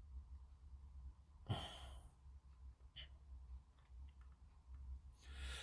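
A man breathing out twice close to the microphone, a soft sigh about a second and a half in and another near the end. A few faint small clicks come in between.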